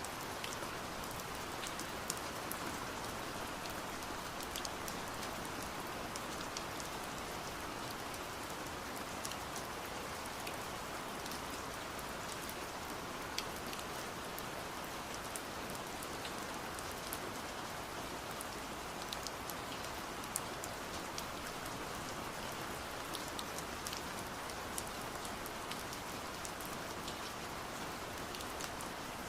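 Steady rain with a continuous hiss, dotted with many scattered sharp taps of drops striking window glass.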